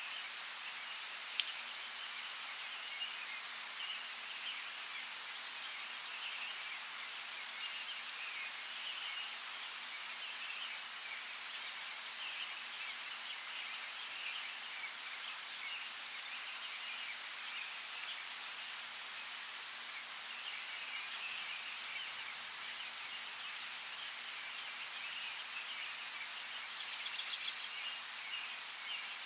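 Steady rain hiss with scattered single drop ticks and birds chirping in the background. Near the end comes a quick run of about eight sharp chirps, the loudest sound here.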